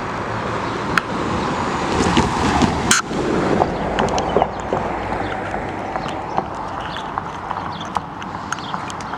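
A road vehicle passing close by. Its noise swells from about two to five seconds in and then fades, with a few sharp clicks along the way.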